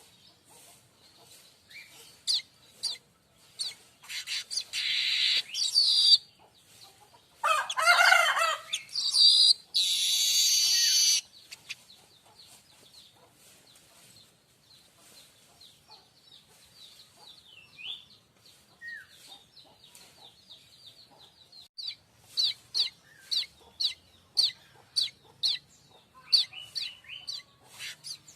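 Streaked weaver singing: short high chirps and ticks with three long, loud, harsh buzzy phrases in the first half, then sparse chirps and a run of quick sharp repeated chirps near the end.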